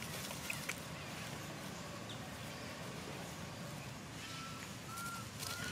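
Outdoor ambience with a bird calling: a run of short, even whistled notes, about two a second, starting about four seconds in.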